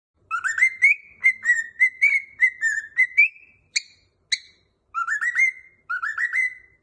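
Cockatiel whistling a tune: a run of quick rising whistled notes, two sharp chirps in the middle, then two short rising whistled phrases near the end.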